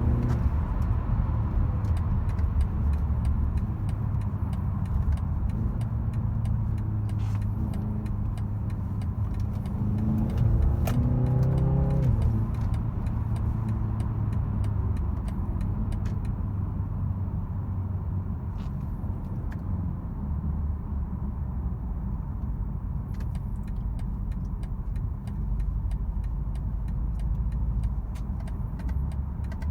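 2022 BMW 330i xDrive's 2.0-litre turbocharged four-cylinder engine and road noise while driving, a steady drone. About ten seconds in, the engine note rises briefly as the car accelerates, then settles back; it starts rising again near the end.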